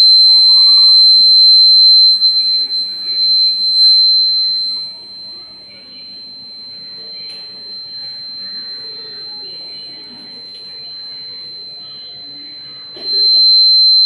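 Homemade rain alarm's buzzer sounding one steady high-pitched tone, set off when sprinkled water on its aluminium-foil sensor completes the circuit. The tone is loud for the first few seconds, drops much quieter about five seconds in, and comes back loud near the end.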